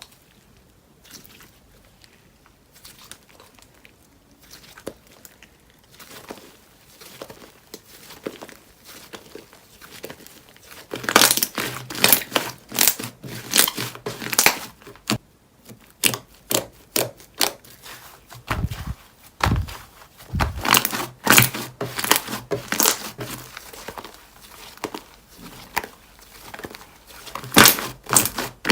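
Slime being handled and pressed, giving quick crackling clicks and pops. These are sparse and soft at first, then come thick and much louder from about eleven seconds in.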